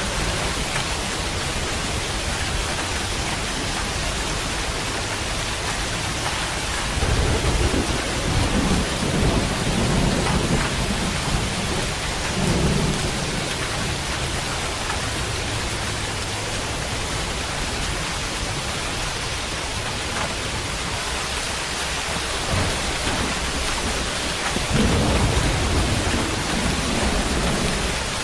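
Steady rain with low rumbles of thunder rolling in several times: a long rumble about a quarter of the way in, a shorter one soon after, and another near the end.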